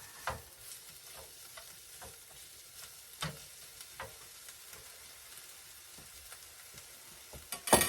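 Vegetables sautéing in a frying pan, a steady faint sizzle, with a spatula stirring and clicking against the pan now and then. A sharp knock near the end.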